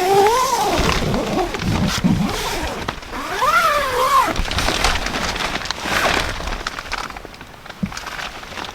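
A cat meowing twice, two rising-then-falling calls about three seconds apart.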